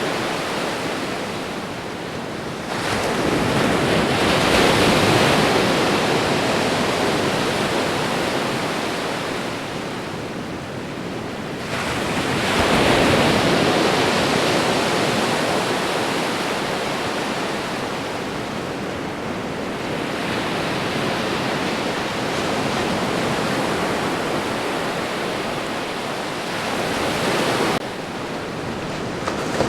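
Ocean surf: a continuous wash of breaking waves, swelling as a wave breaks about three seconds in and again about twelve seconds in, then easing back to a steady roar of foam.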